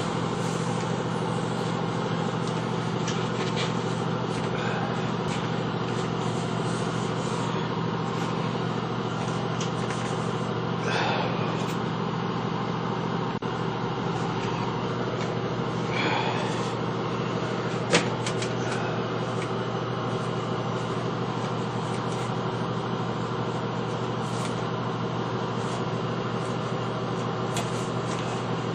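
A steady, even machine hum, with a few faint short sounds and one sharp click about 18 seconds in.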